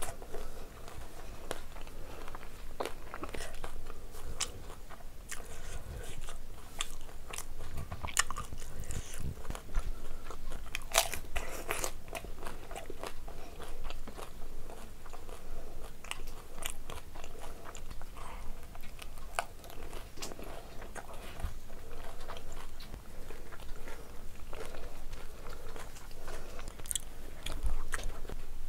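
Close-miked chewing of a mouthful of crisp pani puri shells: irregular crunching and crackling bites with wet mouth sounds.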